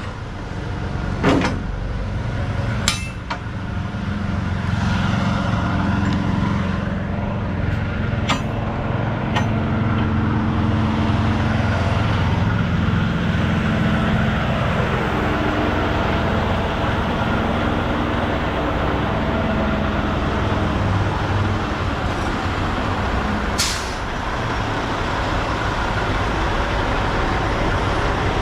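Semi truck's diesel engine running steadily at low speed while maneuvering, with a few sharp clicks in the first ten seconds and a short air hiss about twenty-four seconds in.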